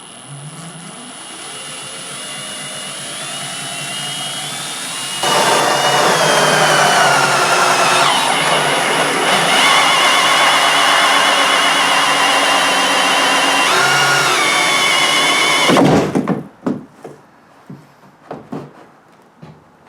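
Drill spinning a 2 1/8-inch hole saw through the kayak's plastic hull. The motor whine grows louder and harsher about five seconds in as the saw bites, its pitch sagging and recovering under load. It cuts off suddenly about sixteen seconds in, followed by a few light knocks.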